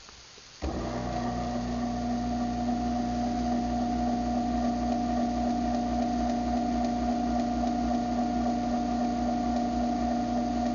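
Craftsman half-horsepower garage door opener motor starting abruptly just over half a second in and running steadily through a close cycle, with a steady hum and whine.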